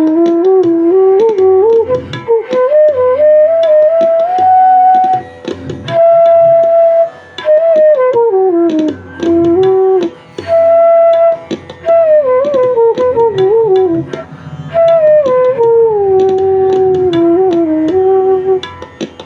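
Bansuri in E playing a slow melody: held notes, sliding glides between pitches and short breaths between phrases, with light percussive taps behind it.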